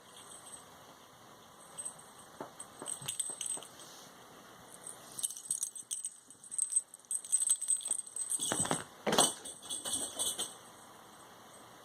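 Small bell jingling in irregular bursts, as from a cat's bell toy or collar while it plays, with a couple of knocks about nine seconds in.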